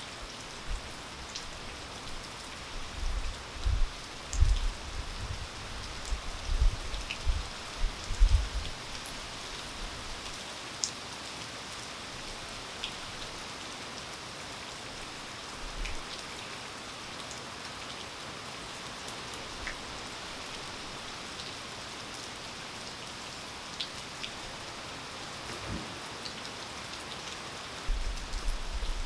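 Steady rain falling: an even hiss with scattered sharp drip ticks. Irregular low thumps come and go during the first third and again near the end.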